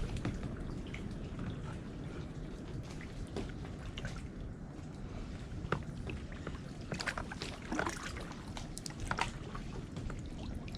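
Kayak paddle strokes: the blades dipping and water dripping and splashing off them in irregular small splashes, over a steady low rumble.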